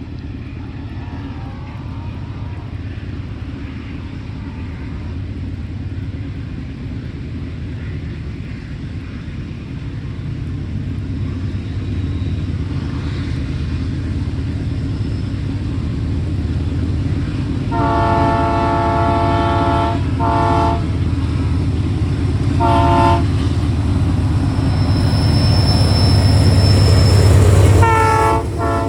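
A train approaching, its steady low rumble slowly growing louder, while its horn sounds one long blast followed by several short ones, the last of them in quick succession near the end.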